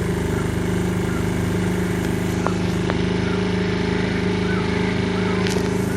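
Motorboat engine running steadily at speed, a low, even drone.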